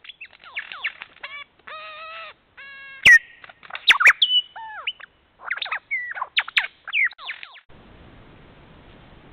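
Birds calling over a forest: a busy mix of whistles, chirps and short downward-gliding calls, with a few fuller, pitched calls among them. It cuts off abruptly about three-quarters of the way in, leaving a steady faint hiss.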